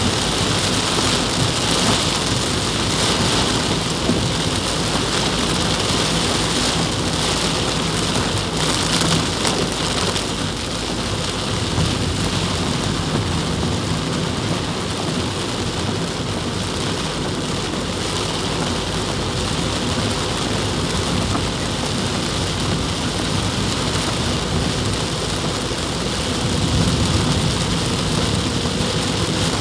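Heavy downpour: a steady, dense hiss of rain with a low rumble underneath.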